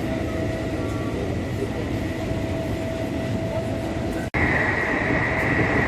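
Steady running noise of an MTR East Rail line train, with a faint steady whine. About four seconds in the sound breaks off for an instant, then continues louder with a stronger high whine.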